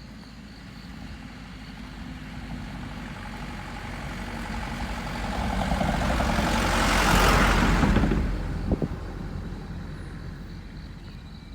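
A motor vehicle passing: its engine and rushing noise grow steadily louder to a peak about seven seconds in, then fade away, with a short sharp sound just after the peak.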